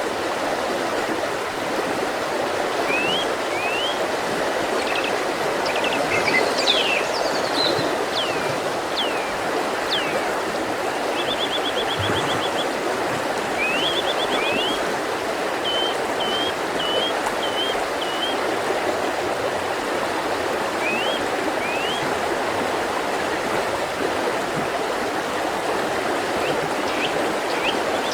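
Mountain river rushing steadily over rocks, with songbirds calling over it: short rising chirps, a quick trill and a run of repeated notes, mostly in the first two-thirds.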